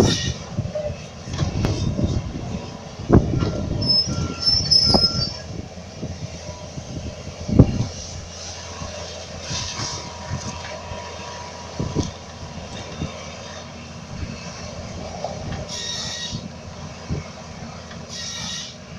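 Forestry excavator at work: its engine runs steadily under load, with repeated heavy knocks and thuds, the loudest about seven and a half seconds in. Short high metallic squeals come about four to five seconds in.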